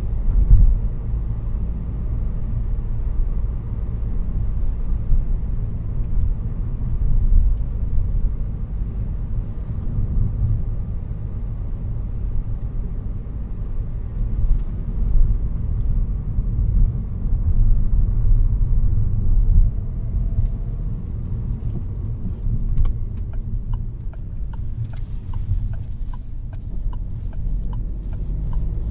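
Low, steady rumble of a 2018 Peugeot 308 1.6 BlueHDi 120, a four-cylinder turbodiesel hatchback, being driven, with engine and road noise. Faint scattered clicks appear near the end.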